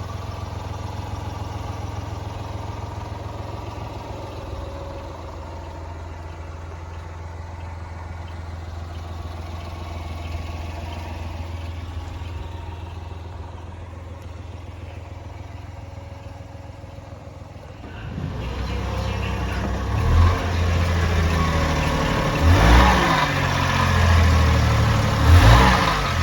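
Small three-cylinder engine of a 1996 Honda Acty kei truck idling steadily. About eighteen seconds in it gets louder and rises and falls in pitch several times as it is revved or driven.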